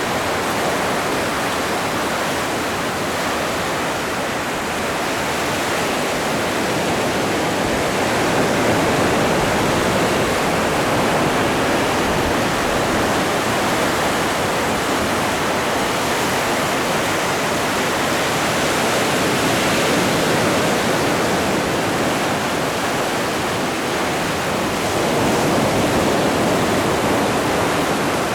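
Atlantic ocean waves washing onto the shore: a steady, dense rush of surf that swells slightly twice.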